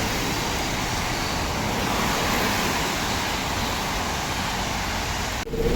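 Steady rush of a heavy downpour with traffic on a wet city street, cut off abruptly near the end.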